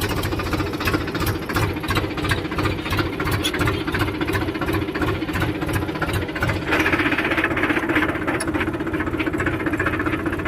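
Tractor diesel engine running steadily with an even, low, knocking beat, growing a little louder and harsher about two-thirds in.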